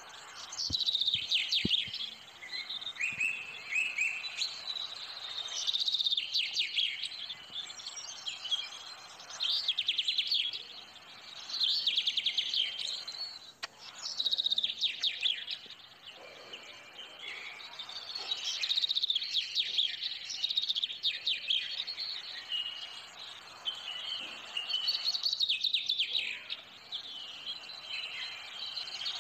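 Songbirds singing: bursts of quick chirping trills recur every few seconds over a faint steady hiss. A few soft knocks sound in the first couple of seconds.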